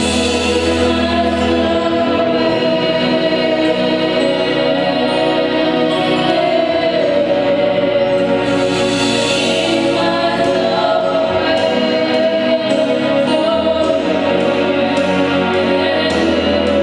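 Music: a gospel choir singing a worship song over instrumental accompaniment, sustained and steady.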